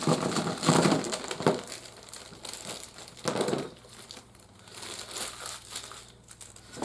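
Toy packaging crinkling and rustling as the pieces are pulled out of the box, loudest in the first second and a half with another burst about three seconds in, then quieter handling.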